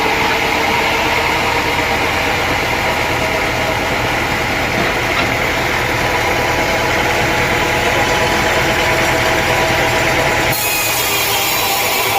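Sawmill saw cutting through a teak log: a loud, steady sawing noise with a running motor hum underneath, changing abruptly near the end.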